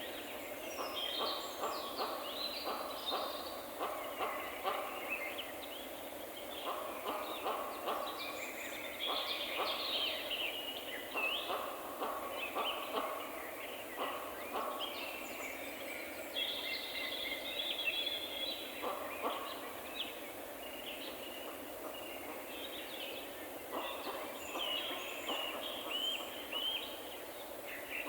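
Several birds chirping and calling, many short calls overlapping throughout, over an even background hiss.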